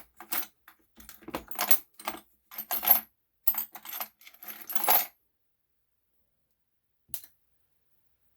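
Small metal hand tools clinking and rattling against each other as they are sorted through in search of the right-size wrench, in several quick clusters over about five seconds, then a single click near the end.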